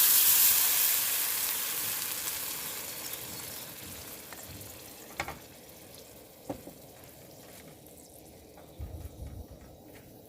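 Sudden loud sizzle, as of something hitting a hot cooking surface, fading steadily over about five seconds, with a few sharp pops and crackles as it dies down.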